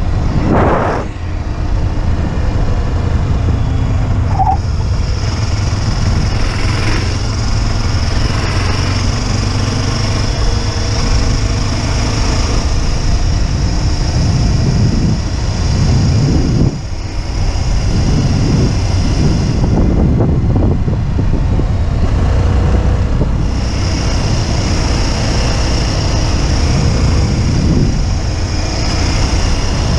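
Motorcycle running under way, with wind and road noise. The sound dips briefly just after the start and again about 17 seconds in.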